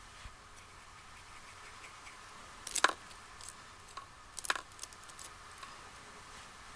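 Light clicks and taps of makeup tools being handled, such as a brush against an eyeshadow palette. There are two louder clusters of clicks, about three and four and a half seconds in, with a few smaller ticks between.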